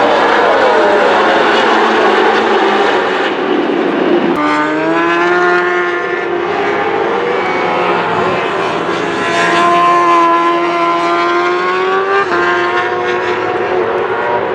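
Racing engines running at high revs: a rough roar at first, then about four seconds in a steady high-pitched engine note that climbs slowly, with a change in the note about twelve seconds in.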